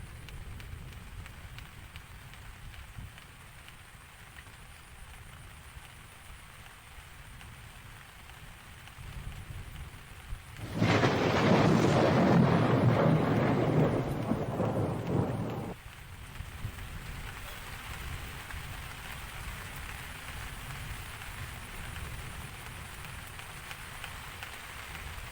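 Steady rain, with a loud clap of thunder about eleven seconds in that rumbles for about five seconds and then cuts off suddenly.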